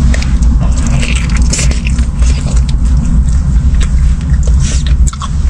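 Close-up biting and chewing of a braised chicken drumstick, with many small wet clicks and crackles over a steady low rumble.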